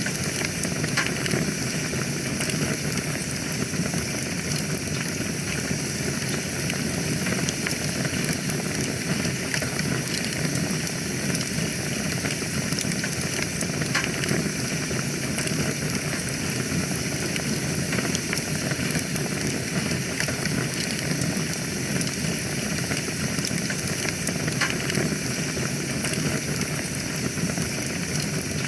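Wood fire crackling in a fireplace: a steady hiss and low rumble with many scattered sharp pops and crackles.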